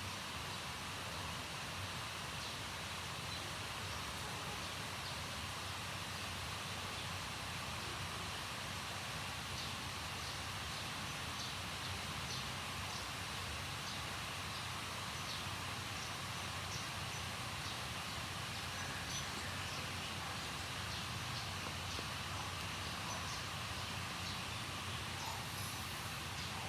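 Steady background noise with faint, scattered short ticks.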